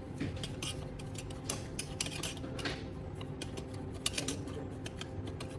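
Irregular light metallic clinks and scrapes of a scoop and charcoal pieces against the stainless steel body of a kettle being filled with charcoal and paste.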